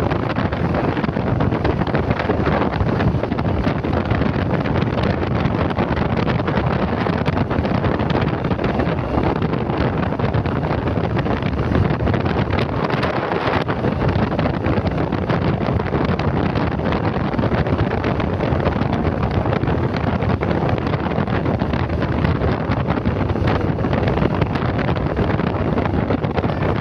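Steady, loud wind rush buffeting the microphone of a motorcycle rider at speed, covering any engine sound.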